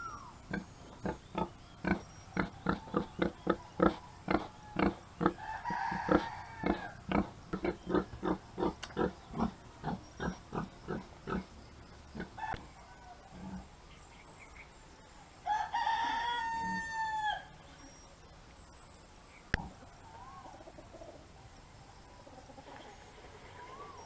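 A rooster crows once, a single pitched call of about two seconds with a falling end, about two-thirds of the way in. Before it, a run of short sounds about three a second goes on for the first twelve seconds and then stops.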